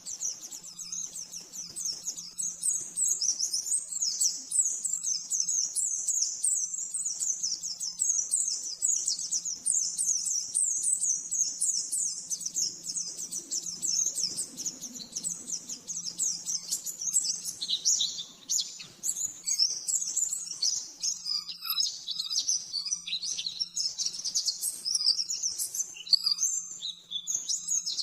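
A white-eye (pleci) singing a long, fast run of high-pitched chirping notes with hardly a pause, its song breaking into shorter, choppier phrases about two-thirds of the way in.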